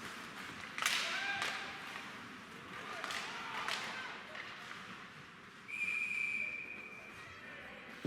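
Several sharp knocks in the first few seconds, then a referee's whistle blown once in a steady blast lasting nearly two seconds.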